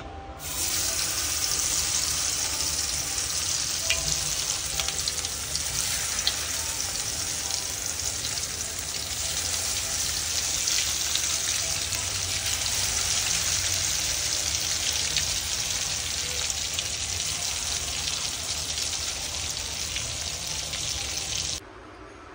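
Mutton shami kebab patties shallow-frying in hot oil in a pan: a steady loud sizzle with scattered pops and crackles. It cuts off suddenly near the end.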